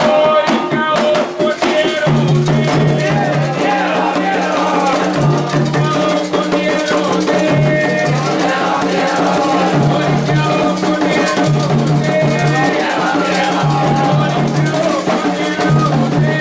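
Afro-Brazilian religious music: chanting voices over hand drums and shaken rattles, with a low sustained note recurring about every two seconds.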